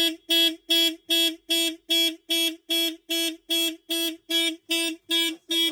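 Porsche 911 (997) car alarm going off through the car's horn: a fast, even string of loud horn beeps, about two and a half a second.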